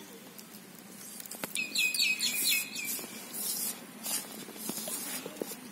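A bird chirps a quick run of about six short notes, while a hand stirs dry flour in a steel bowl with soft, scratchy rustling that comes and goes.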